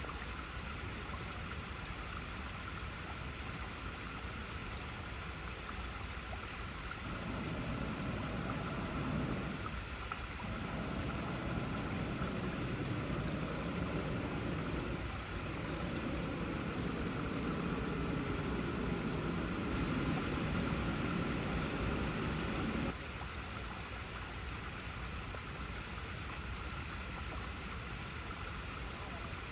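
Water flowing and splashing over icy rocks in a steady rush. A deeper, louder rush joins in about a quarter of the way through and cuts off suddenly about three quarters of the way through.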